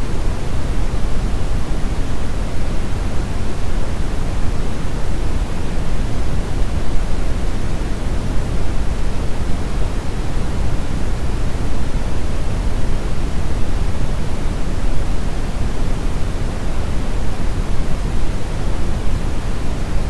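Steady brown noise: an even, unchanging rush of noise weighted toward the low end, like a deep distant roar.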